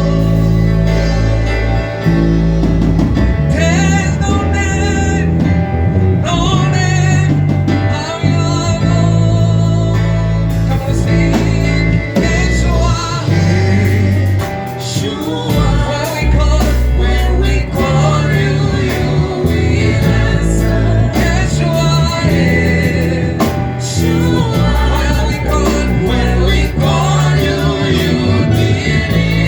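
Gospel music: voices singing over a band, with a strong bass line that moves every second or two.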